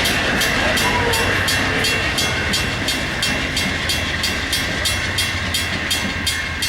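Train passing, its wheels clacking over the rail joints about three times a second, with a steady high ringing squeal above.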